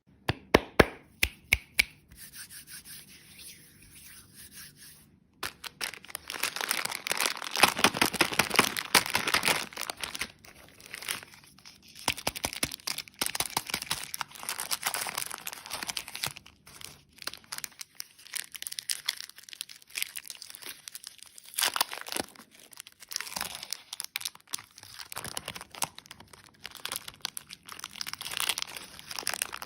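Packaging, likely plastic candy wrappers, being crinkled and torn open in uneven spells of crackling, after a few sharp clicks at the start.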